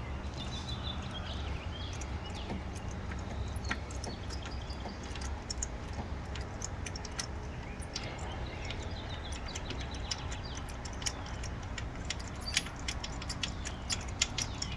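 Small metallic clicks and clinks of a spark-plug socket and extension as a loosened spark plug is unscrewed by hand from a HEMI V8's cylinder head, over a low steady rumble.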